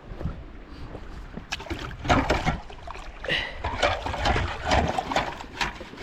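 Water splashing in an irrigation ditch, with a quick run of knocks and scrapes from about a second and a half in as a metal ditch tin is worked by hand. Wind rumbles on the microphone.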